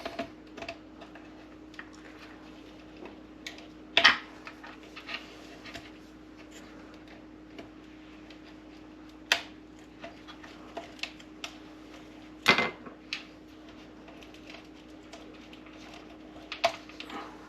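Kitchen knife picking and prying at hot glue on a wiring connector inside a coffee maker: scattered light clicks and taps, with a few sharper clicks spread through. A steady low hum runs underneath.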